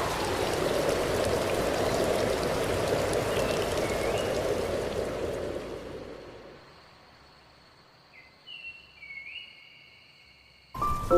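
Steady rushing of waterfall water that fades out about two-thirds of the way through, leaving faint high tones and a short burst near the end.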